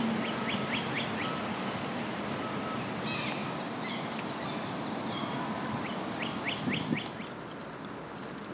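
Songbirds singing: a quick series of short rising chirps about half a second in and again about two-thirds through, with other short calls in between, over a steady background hiss.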